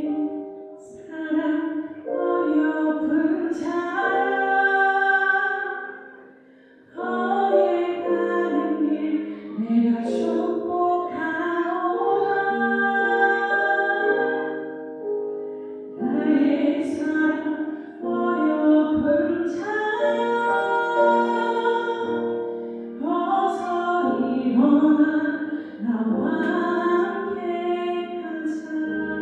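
A woman singing a slow song over musical accompaniment, in phrases of a few seconds with held notes and a short break about six seconds in.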